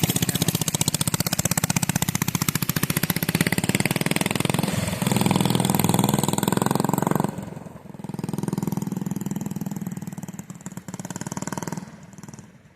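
Mini bike's small engine, fitted with a PZ19 round-slide carburetor, running hard under throttle as it is ridden. About seven seconds in the engine note drops sharply, then picks up again more faintly and fades away near the end.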